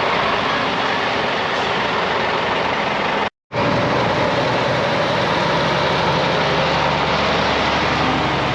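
Heavy lorry diesel engines running steadily. The sound drops out briefly about three seconds in, then a steady low engine drone carries on.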